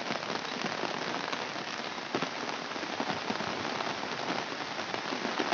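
Steady heavy rain falling: a dense, even hiss with many separate drops ticking.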